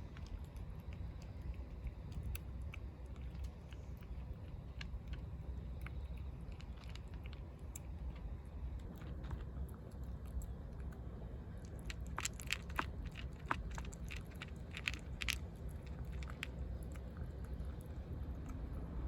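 A cat eating food from a bowl: scattered crisp crunching and chewing clicks, coming thickest about two-thirds of the way through, over a steady low rumble.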